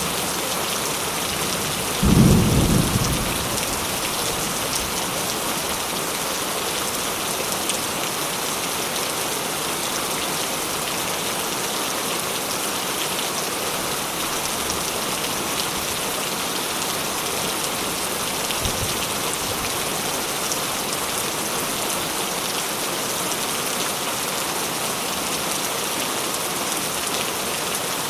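Steady rain falling, with a sudden, loud burst of thunder about two seconds in that dies away within a second or two, and a much fainter low thump later on.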